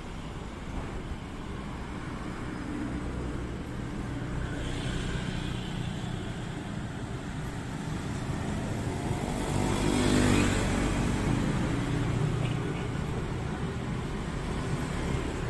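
Street traffic with a steady low rumble of engines, heard from a slow-moving pedicab. A motor vehicle grows louder and passes close by about ten seconds in.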